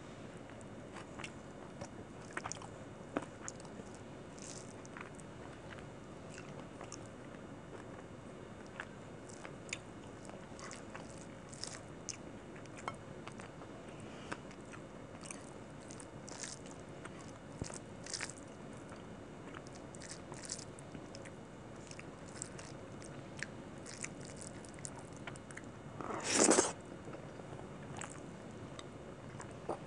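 Close-miked eating of chicken curry and rice by hand: chewing and mouth sounds with many small scattered clicks, and fingers working the rice and gravy on the plate. A single louder noise lasting about half a second comes near the end.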